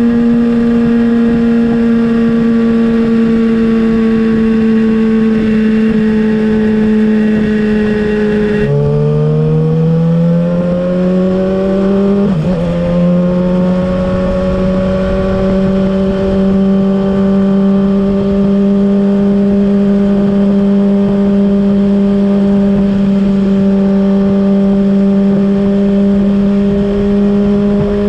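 Kawasaki ZX-6R inline-four motorcycle engine, with an M4 slip-on exhaust, heard while riding. It holds a steady cruise, then about nine seconds in the pitch drops sharply and climbs again as the bike shifts up and pulls. After a brief dip near the middle, it settles into a steady cruise.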